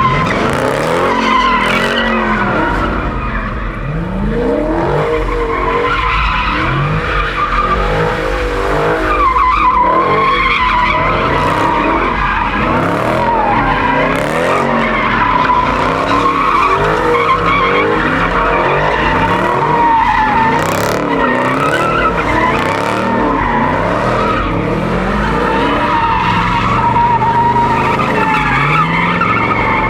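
Car engines revving up and down over a continuous tyre squeal as the cars spin their tyres doing burnouts and donuts.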